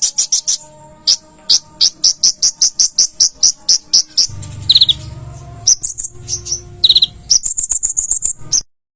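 Small bird chirping loudly in a fast run of sharp, downward-sweeping notes, about four or five a second. A couple of short high trills break in midway, with a low hum underneath for the second half. It cuts off suddenly near the end.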